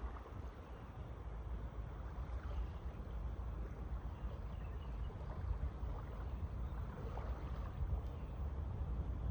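Outdoor seaside ambience: a steady low rumble of wind on the microphone over a soft wash of calm water.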